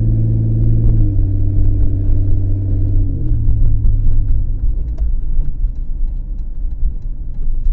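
2003 Ford Escape engine and exhaust droning loudly under way, dropping in pitch twice as the revs fall, then settling into a rougher low rumble. The exhaust is leaking or damaged, which makes it so loud.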